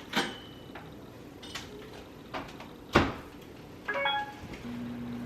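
A few knocks and clicks, the loudest about three seconds in, then a short chime about four seconds in, and a steady low hum that starts near the end.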